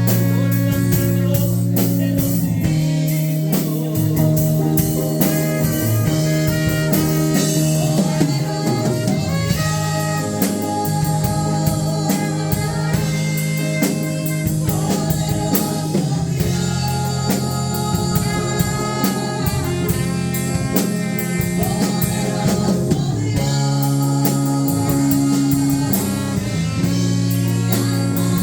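Live worship band music with guitar and drum kit keeping a steady beat, with some singing.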